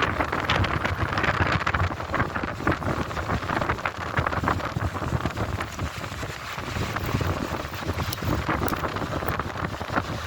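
Strong, gusty wind buffeting the phone's microphone: a low rumble that swells and eases, full of crackle.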